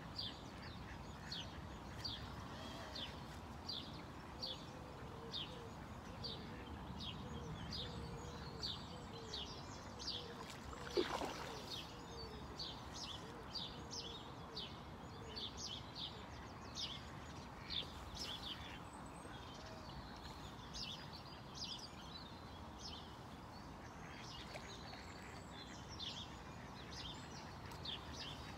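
A small bird chirping a short high note over and over, about two a second, over steady outdoor background noise, with a faint run of lower notes partway through and a single sharp click about eleven seconds in.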